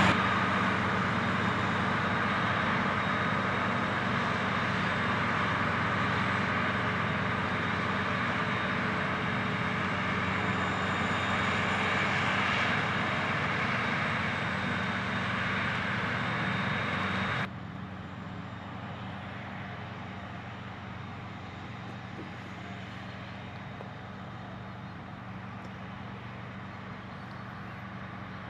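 Heavy harvest machinery running steadily: a low engine hum under a loud, broad rush. About two-thirds of the way through it drops suddenly to a quieter, steady engine sound.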